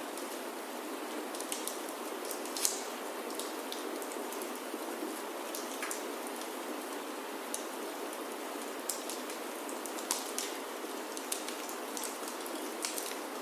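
Steady rain falling on a wooden chalet roof, with scattered sharp crackles and pops from a wood fire in the fireplace, the loudest about two and a half seconds in.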